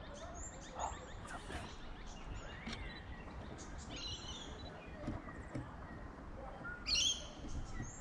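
Wild birds calling: a short rising-and-falling whistled note about a third of the way in, and bursts of high chirps around the middle and again, loudest, near the end.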